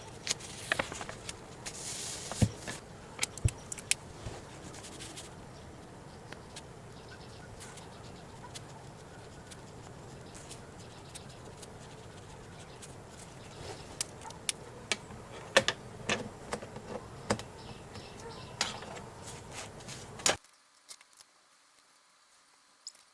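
Scattered small clicks and taps of stationery being handled at a desk over a steady low hiss, busiest near the start and again in the last third, before the sound cuts off abruptly to near silence.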